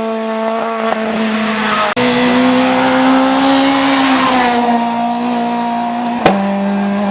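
Rally-style race car engine at high, nearly steady revs on a hillclimb run. The pitch jumps abruptly about two seconds in and again near the end, with a sharp click at each break.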